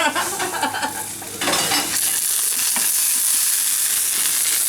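Chicken ballotine frying in a pan of hot oil. The sizzle jumps up sharply about a second and a half in, as the chicken meets the fat, then runs on as a steady hiss.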